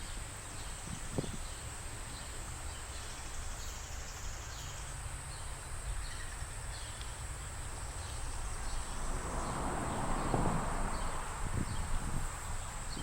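Steady, high-pitched chorus of insects, with a swell of hissing noise around ten seconds in and a few soft knocks.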